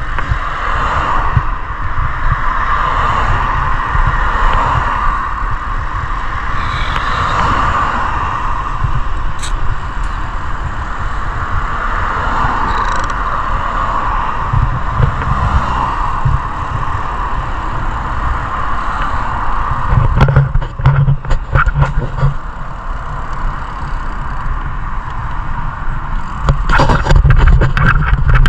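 Road traffic noise with steady wind rumble on an action camera's microphone during a street ride. It gets louder near the end.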